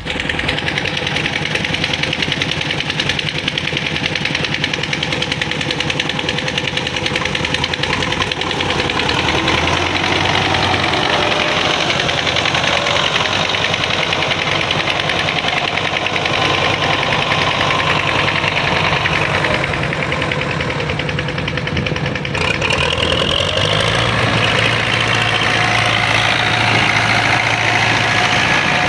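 Old tractor's engine running steadily, with a brief dip and a shift in its tone about three-quarters of the way through.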